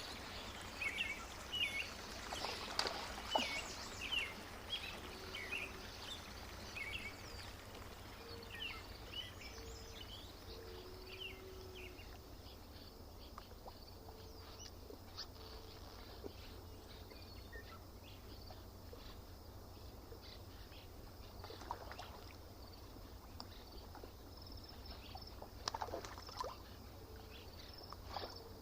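Lakeside ambience with small birds chirping in quick series, busiest over the first ten seconds or so and then sparse, over a faint steady low background. A short low note repeats now and then, and a couple of short sharp sounds come near the end.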